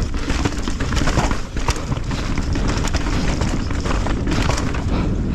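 Mountain bike descending a rough, rocky trail: a steady rush of wind on the microphone with a rapid run of knocks and rattles from the bike over the rocks.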